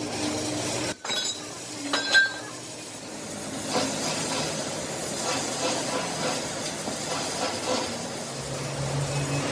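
A couple of ringing metal clinks about two seconds in, then a steady hiss with scattered small metallic clinks, typical of metalwork on a truck axle housing.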